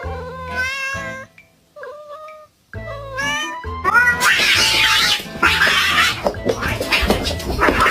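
Cat meowing over background music with a steady bass line. About four seconds in, the sound turns louder and rougher, into cat yowling.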